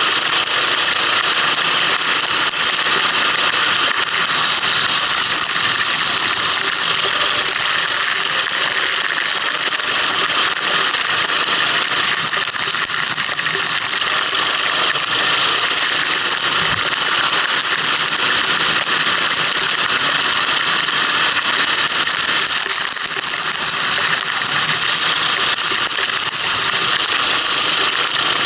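Go-kart engine running at speed, recorded onboard in the rain, under a steady hiss. The sound eases briefly about 23 seconds in.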